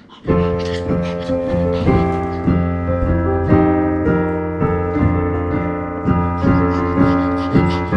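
Piano playing the accompaniment to a choral song, starting suddenly about a third of a second in, with repeated chords over held bass notes.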